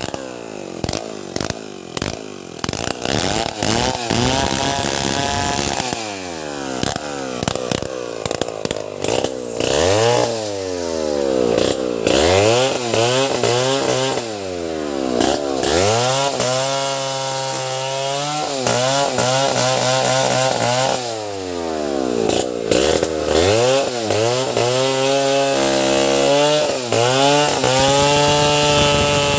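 Gasoline chainsaw cutting wood, its engine revving up and down over and over: the pitch climbs to full throttle, sags as the chain bites into the log, then drops back. Many short clicks sound through the first third.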